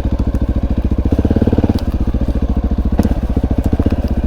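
Honda XR650L's single-cylinder four-stroke engine thumping along at low speed, getting louder briefly about a second in as the throttle opens, with a sharp click about three seconds in.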